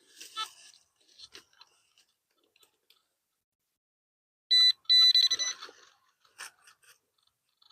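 Metal detector giving its high-pitched electronic target tone twice, a short beep and then a longer one, about two-thirds of the way in. Faint scattered crunching of soil comes before it in the first second and a half.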